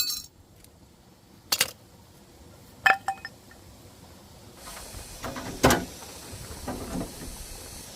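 A few separate sharp knocks and clinks, one of them with a brief metallic ring, spaced a second or more apart. A low rustling noise comes in about halfway through.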